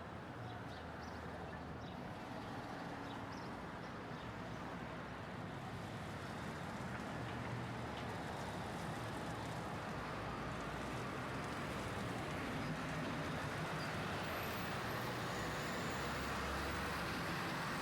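City street traffic: a steady rumble of road vehicles, with an engine growing gradually louder as a vehicle approaches. A few faint light ticks in the first seconds.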